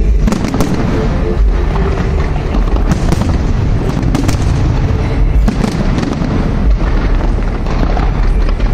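Fireworks display: a dense, continuous barrage of booming shell bursts and sharp cracks, with no let-up.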